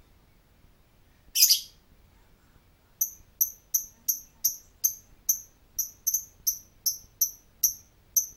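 Lovebird calling: one short harsh squawk about a second and a half in, then a long run of evenly spaced sharp, high chirps, about three a second, the chattering call that lovebird keepers call "ngekek".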